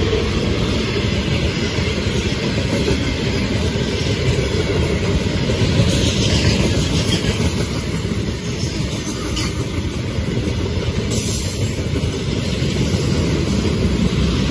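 Freight wagons of a passing freight train, open gondolas and then tank cars, rolling by at speed: a steady, loud rumble and rattle of steel wheels on the rails.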